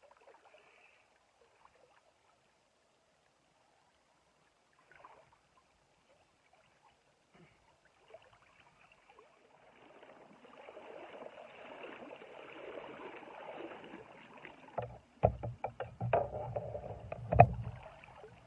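Water splashing and sloshing, building up over several seconds, then a run of sharp knocks and thumps, the loudest near the end. This is the sound of a fish and the gear being handled in the water at the river's edge.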